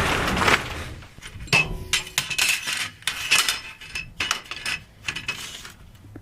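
A brief rush of noise, then a run of sharp metallic clinks and rattles with a light ringing, stopping near the end.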